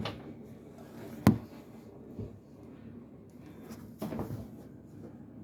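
Sharp click about a second in, then softer knocks near four seconds, as a cabinet-mounted pull-out TV is unlatched from its magnetic catch and pulled out.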